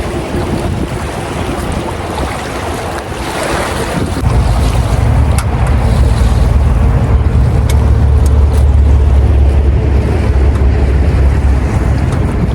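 Wind buffeting the microphone: a steady rushing noise with a heavy low rumble that gets much louder about four seconds in and stays strong.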